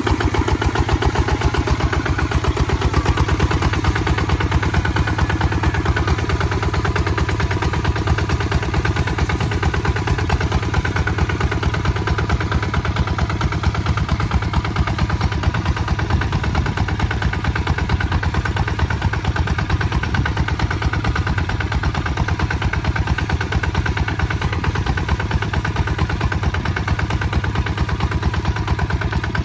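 Kubota ZT 155 DI walking tractor's single-cylinder diesel engine running steadily with a fast, even chugging beat while plowing.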